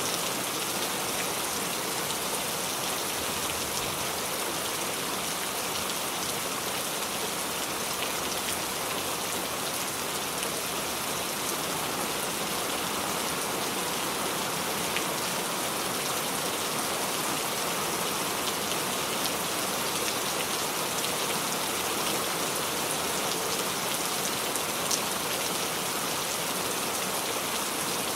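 Steady rainfall, an even hiss of drops with a few louder individual drop ticks here and there.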